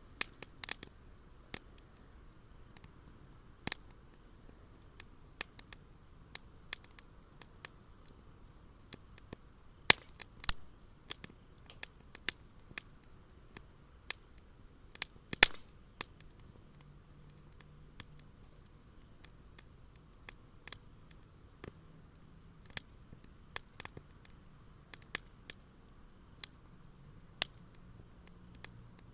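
Wood fire crackling, with irregular sharp pops and snaps, a few louder ones about ten and fifteen seconds in.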